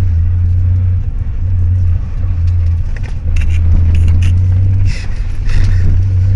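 Nissan 300ZX Twin Turbo's twin-turbo V6 engine heard from inside the cabin under hard driving: a loud, steady low drone that dips briefly several times, with short sharp noises above it.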